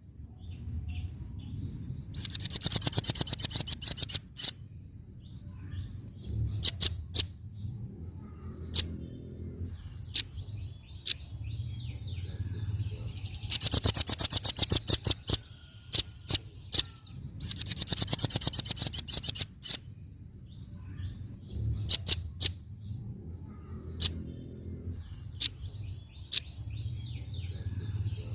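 Velvet-fronted nuthatch calling: bursts of a very fast, high trill about two seconds long, four times, with single sharp high notes in between, over a steady low hum.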